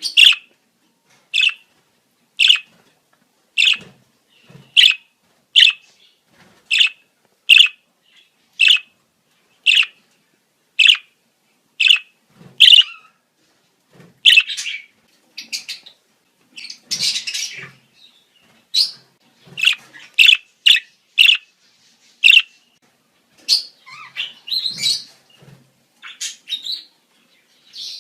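Budgerigars calling in breeding-season chatter. Short, sharp chirps come about once a second, and after about 14 s they give way to denser, more varied warbling chatter.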